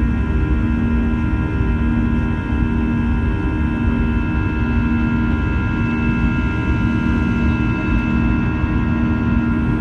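Boeing 737-800's CFM56 jet engines and airflow heard from inside the cabin during takeoff: a steady low rumble with several steady high whining tones over it.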